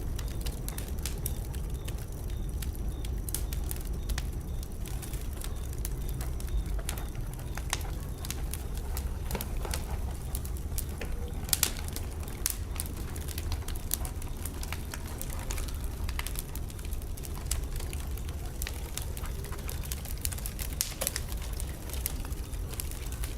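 Fire burning in a fireplace: a steady low rumble with frequent sharp crackles and pops, and a short run of louder pops about eleven and a half seconds in.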